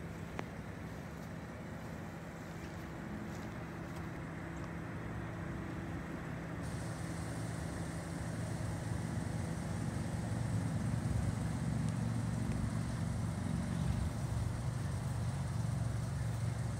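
Ford Mustang coupe's engine running steadily, a low hum that grows louder from about halfway through and holds there.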